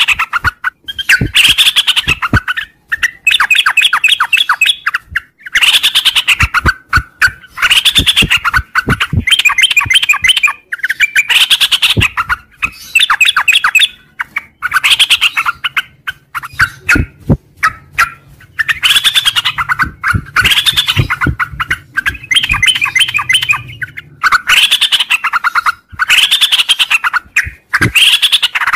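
Yellow-vented bulbul (trucuk) singing loudly in a long run of fast, bubbly chattering phrases, each about a second or so long with short breaks between. This is the continuous 'ngropel' delivery. Sharp clicks are scattered through it.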